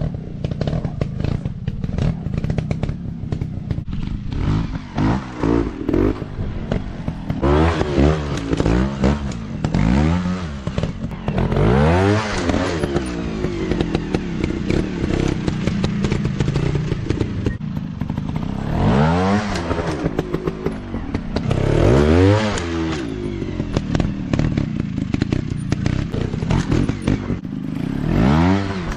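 Dirt bike engines revving up and down again and again in quick blips, with pauses between the bursts, over a steady background of clattering and knocks.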